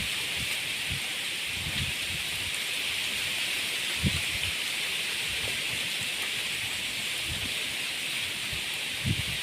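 Leaves rustling in a strong wind as a steady hiss, with the wind buffeting the microphone in short low gusts about four seconds in and near the end.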